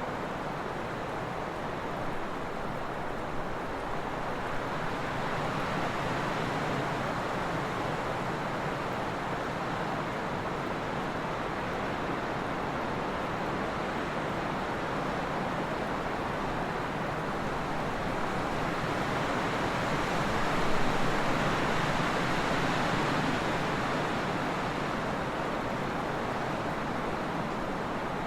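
Trade wind blowing in a steady rush of noise, swelling and easing in slow waves, with a stronger surge a little past the middle.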